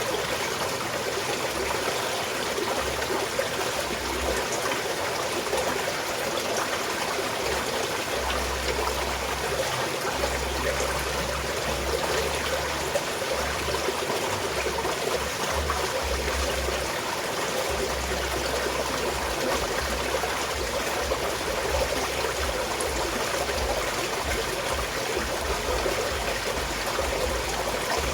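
Small mountain stream flowing and trickling over rocks, a steady babble of running water. A low rumble comes and goes underneath.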